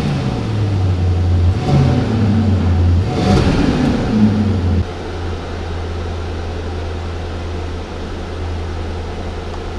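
Mercedes-Maybach GLS 600's V8 engine revved in a few blips, then settling to a steady idle about halfway through.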